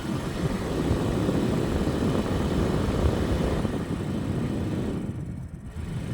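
Ryobi ONE+ 18V Whisper Series 7-1/2 in. fan running, a steady rush of air from the blade with no grinding, its motor shaft freshly oiled with 3-in-One oil.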